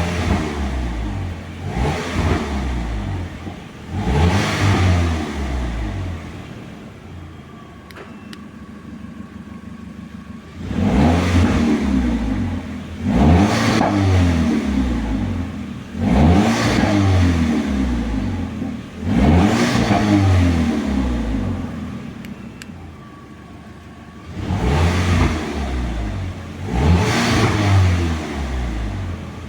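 Audi TT 8J's 2.0 TFSI turbocharged four-cylinder engine revved repeatedly, each rev rising and falling back, with two longer spells of idle in between. The exhaust runs through a stock rear muffler modified with a cutout.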